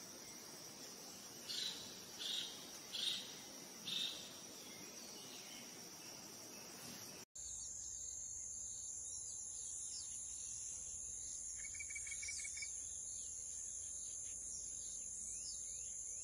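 Steady high-pitched insect drone, like crickets, with birds calling over it: four short louder calls in the first few seconds. About seven seconds in the sound cuts to another outdoor recording, with a higher insect drone and many quick falling bird chirps.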